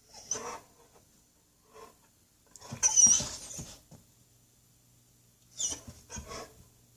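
Squirrels chattering in several short, sharp, high-pitched bursts, the longest and loudest about three seconds in.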